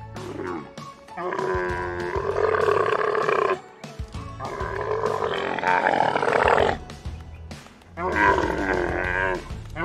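Camel bellowing: three long, rough, gurgling calls of two to three seconds each, over background music.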